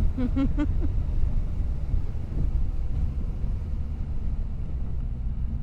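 Steady low rumble of a motorbike on the move: engine and wind noise on the camera's microphone, with a brief voice in the first half-second.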